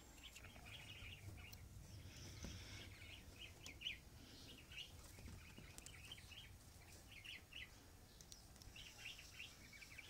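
Faint, short bird chirps scattered throughout, over a low steady background rumble.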